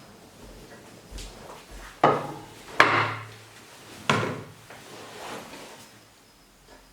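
A run of sharp knocks and bangs, four in about three seconds, each dying away quickly.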